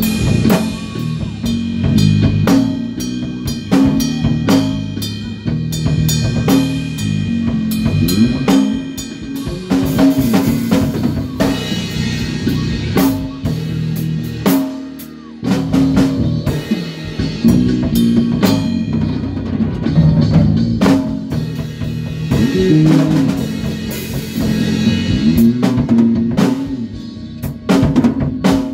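A band rehearsing a song, with a drum kit keeping a steady beat under a busy low bass line, and a short drop in the playing about halfway through.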